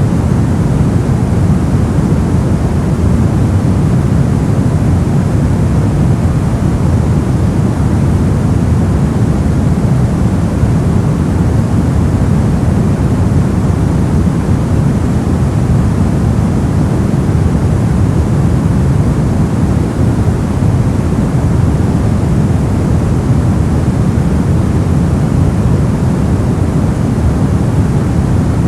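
Steady, unbroken noise track sold as white noise, an even deep hiss with most of its energy low down, nearer to pink or brown noise than to a bright white hiss.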